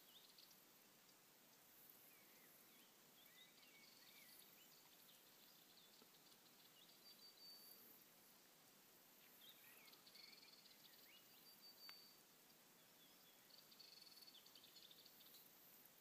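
Faint distant birdsong: short phrases of high chirps and warbles coming every few seconds over a quiet rural background.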